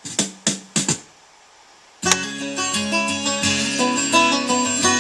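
Guitar music played from a USB stick through a restored 1946 Hudson pickup's radio, cut into a few short fragments in the first second as tracks are skipped with the pulled-out knob, then silent for about a second before a song starts abruptly about two seconds in.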